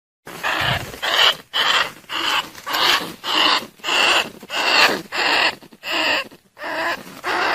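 Bandicoot rat calls used as a lure for trapping rats: after a brief silence at the start, a steady run of harsh squeaks, about one and a half a second.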